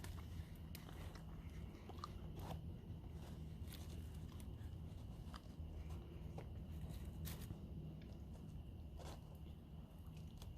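Faint eating sounds: soft crunches and scattered small clicks of someone chewing food close by.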